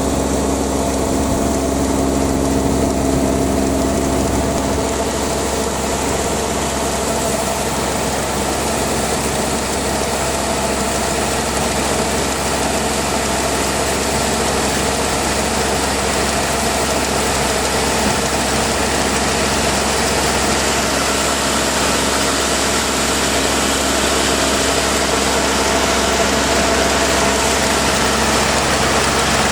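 Combine harvester engine running steadily at an even speed, a constant mechanical drone.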